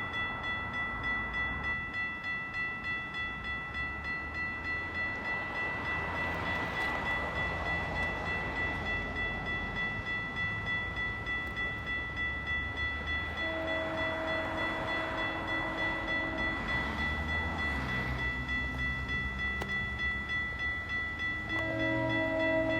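A level-crossing warning bell rings steadily while a GO Transit train approaches. The horn on its leading cab car, an unusual, different-sounding horn, sounds a long blast about two-thirds of the way in, lower horn notes follow, and it sounds again near the end.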